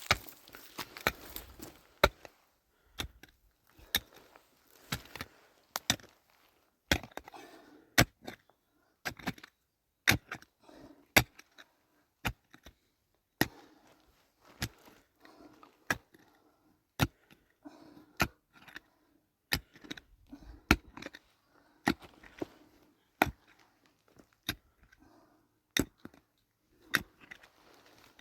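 Sharp knocks repeated about once a second at an uneven pace, with quieter rustling and scraping between them.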